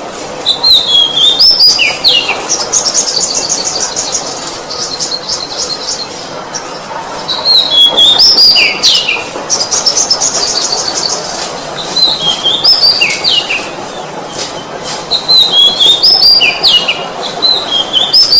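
An oriental magpie-robin (kacer) singing. Each phrase is a run of clear whistled notes that step and slide downward, and in two of them a fast rattling trill follows. The phrases repeat every few seconds.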